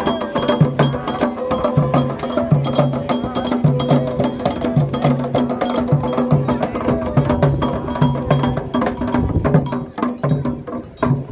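Candomblé ritual drumming: atabaque hand drums and a metal bell play a steady toque, with voices singing over it. The playing dies away about ten seconds in.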